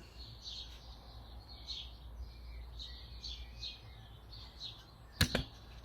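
Small birds chirping in a quick, steady series of short calls, heard faintly over a low steady hum. A sharp double click near the end.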